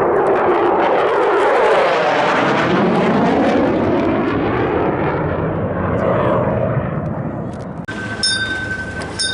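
Jet aircraft flying past, a loud rushing engine noise that sweeps in pitch as it passes and then fades. It cuts off abruptly near the end.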